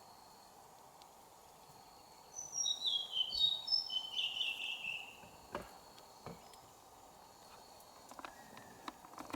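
A bird singing a run of high whistled notes that step downward, lasting about three seconds, over steady forest background with a faint insect tone. Two short knocks follow.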